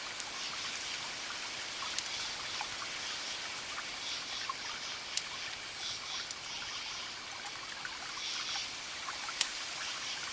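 Campfire crackling, with a handful of sharp pops, over crickets chirping in pulsing bursts and a steady soft hiss.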